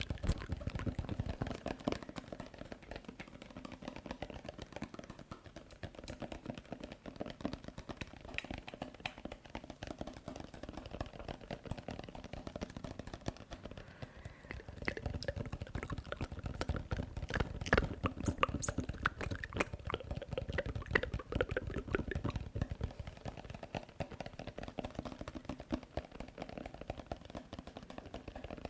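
Close-miked ASMR tapping and wet mouth sounds: a dense, continuous run of small clicks, taps and wet smacks, a little louder partway through.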